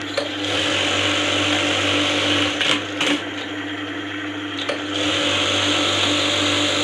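Juki LBH-781 industrial buttonhole machine running through its stitching cycle: two runs of fast, even stitching over a steady motor hum, with a few sharp clacks between them as a cycle ends.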